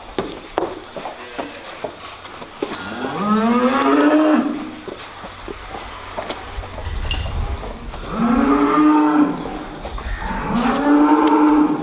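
Dairy cows mooing three times. Each moo rises in pitch and then holds, the first about three seconds in and the last two close together near the end, over a steady high-pitched hiss.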